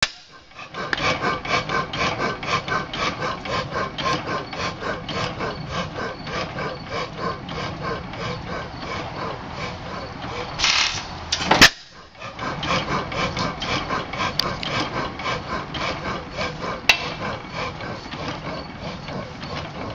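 1918 Waterloo Boy 14 hp single-cylinder hit-and-miss gas engine running with no muffler fitted, a steady rapid beat of about three pulses a second. About halfway through a sharp click breaks the beat for a moment before it picks up again.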